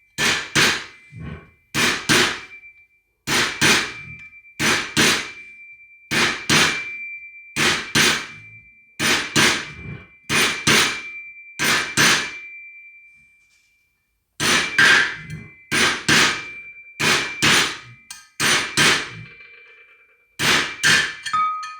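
Hammer driving a new steel bearing race into a Toyota 4Runner front hub through the old race set on top of it: quick groups of two to four metal-on-metal strikes about every second and a half, with a ringing tone, and a brief pause a little past halfway.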